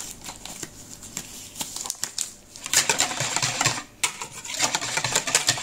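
A thin plastic food-prep glove crinkling and rustling as it is handled and pulled onto a hand, with scattered small clicks and a denser burst of rustling about three seconds in.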